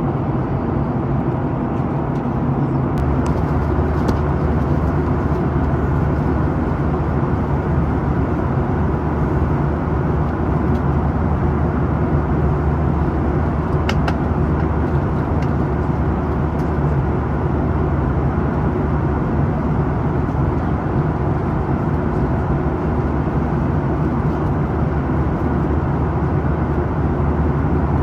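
Steady drone of a Boeing 737-800's CFM56-7B turbofan engines and the rush of air past the fuselage, heard inside the cabin over the wing in flight. A low hum grows slightly stronger about three seconds in.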